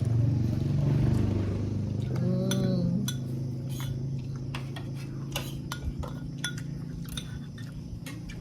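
Cutlery clinking and scraping against plates during a meal: many short, irregular clicks over a low steady hum.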